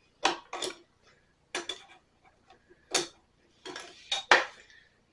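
Metal hand tools clinking and scraping against the metal parts of a stopped hit-and-miss engine: a series of sharp, irregular clinks, the loudest about four seconds in.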